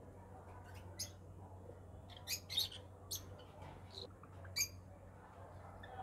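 Caged birds chirping: about half a dozen short, sharp high calls, the loudest bunched in the middle, over a faint low steady hum.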